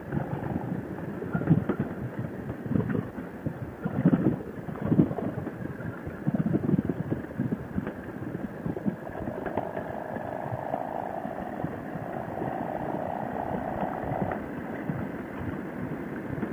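Wind buffeting a microphone on a moving motorcycle in uneven gusts, with the engine's drone underneath. A steadier hum comes in about nine seconds in and lasts some five seconds.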